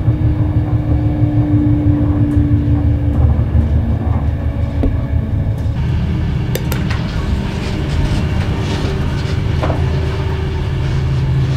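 Low rumble of an Avanti West Coast train running, heard from on board. A steady hum sits over it for the first three seconds; the sound changes about six seconds in, and a few sharp clicks follow.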